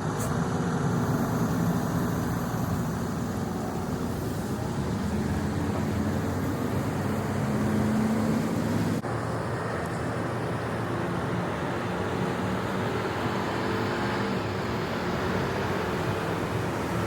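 Tractor-trailer engine running with steady vehicle noise, its low hum rising slightly over the first eight seconds. There is an abrupt break about nine seconds in, after which the same steady noise carries on.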